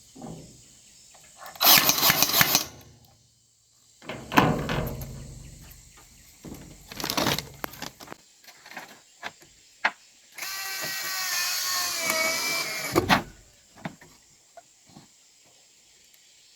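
Construction work noises: a few short rasping or scraping bursts, then a small motor whirring steadily for about two and a half seconds past the middle.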